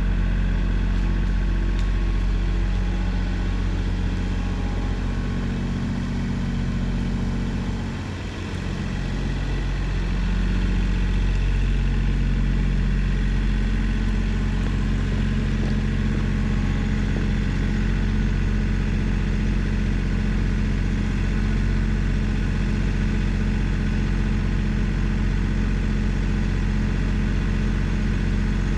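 An engine running steadily. About eight seconds in it briefly drops in speed, then settles at a slightly higher pitch and runs on evenly.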